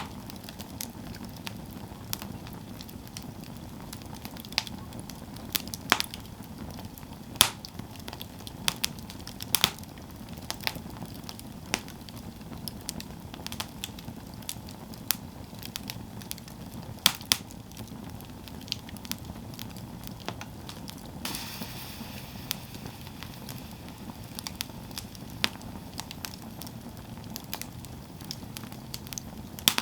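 Campfire burning steadily with a low rushing sound and irregular sharp crackles and pops of burning wood. About two-thirds through there is a brief higher hiss.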